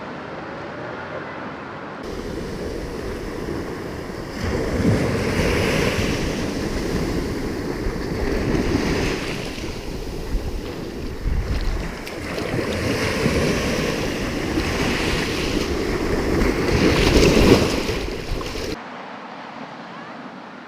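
Sea waves washing onto the shore, swelling four times about four seconds apart, with wind buffeting the microphone. The sound starts abruptly about two seconds in and cuts off near the end.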